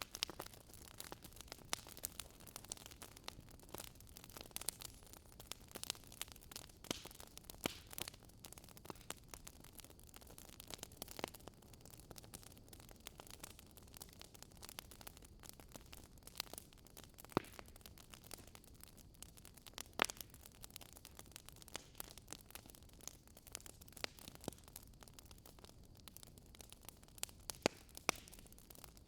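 Wood fire crackling in a fireplace: a soft steady hiss with irregular sharp pops and snaps, a few louder ones scattered through.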